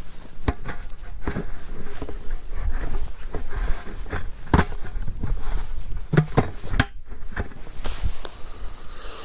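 Wind rumbling on the microphone, with a string of sharp clicks and knocks from handling. The sound drops out briefly about seven seconds in.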